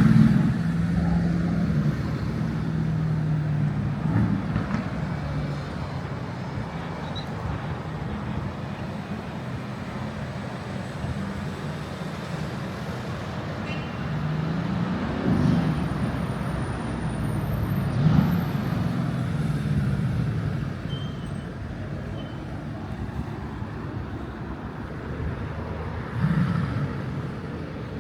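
Street traffic: cars and other motor vehicles driving past, their engines and tyres making a steady din, with louder vehicles rising and falling as they pass a little past halfway and again near the end.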